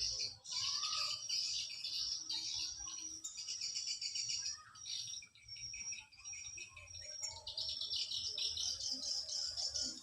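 Wild birds chirping and twittering, many rapid high calls overlapping without pause.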